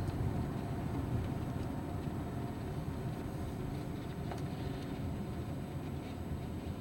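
Steady car interior rumble of engine and road noise while driving, with a faint click about four seconds in.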